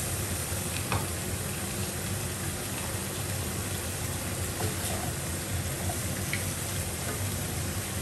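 Squid pieces sizzling steadily as they fry in oil in a non-stick frying pan on a gas burner, stirred now and then with a wooden spatula.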